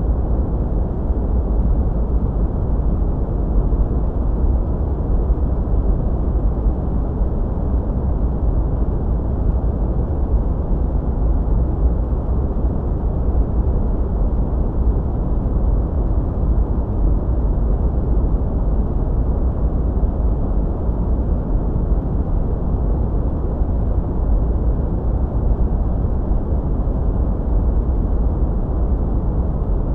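Continuous sleep noise: an even, deep, muffled rushing noise with its weight in the low end and almost nothing high, holding perfectly steady.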